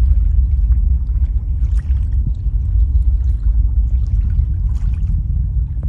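Distant Falcon 9 rocket in ascent: a steady, loud, deep rumble with no distinct events.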